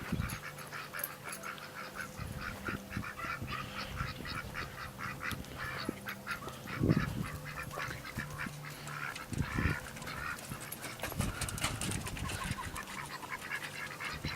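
A flock of ducks quacking in a rapid, steady stream of short calls, with a couple of low thumps about halfway through.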